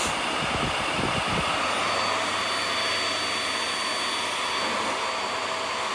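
VAX Air Stretch Pet Max upright vacuum cleaner running steadily, a faint high whine over the motor noise. Low knocks in the first second and a half, from the machine being handled.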